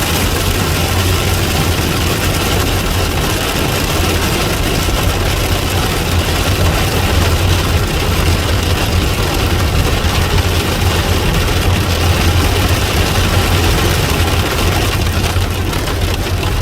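Heavy storm rain drumming on a car's roof and windows: a loud, steady rush over the low hum of the car's running engine.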